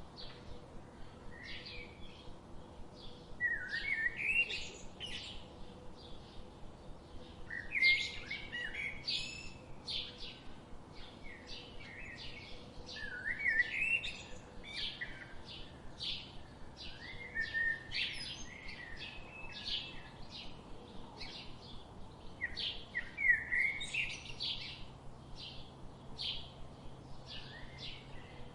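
Songbirds chirping: a steady stream of short, rapid chirps, with louder, quick song phrases about every four to five seconds.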